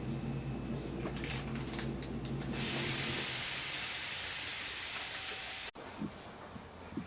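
Pneumatic air hissing aboard a JR Kyushu 305 series electric train. A steady equipment hum gives way, about two and a half seconds in, to a loud, even hiss of released air lasting about three seconds, which cuts off abruptly.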